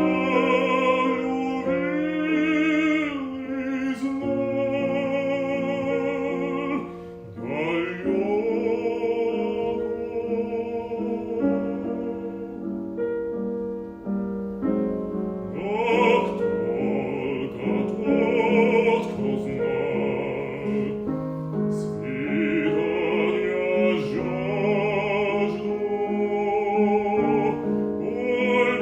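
Classical art song sung by a bass in an operatic style with wide vibrato, over piano accompaniment, with phrases that swell and break off for short pauses.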